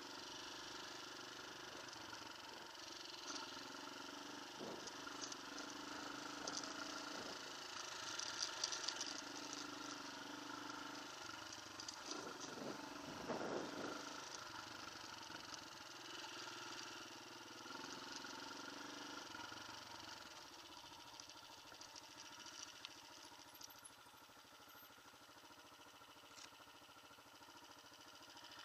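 Motorcycle engine running steadily at low revs, with brief louder stretches about a third and about halfway through, then quieter over the last third.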